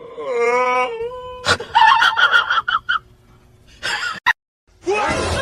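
A long, wavering wailing cry lasting about a second and a half, followed by several shorter, higher cries.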